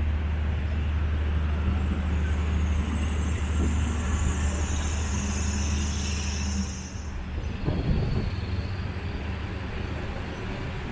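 Street traffic: a steady low vehicle engine rumble throughout. A high hiss comes in about two seconds in and stops suddenly about seven seconds in, and a short burst of noise follows about a second later.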